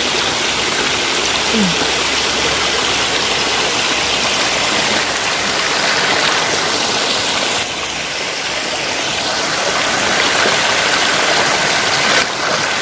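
Waterfall pouring, a loud steady rush of falling water that dips a little about halfway through and then builds back.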